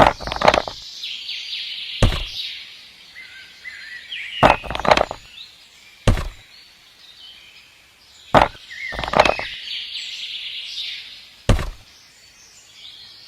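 Sharp knocks or taps, about ten in all, coming every one to two seconds and sometimes in quick pairs, with birds chirping throughout.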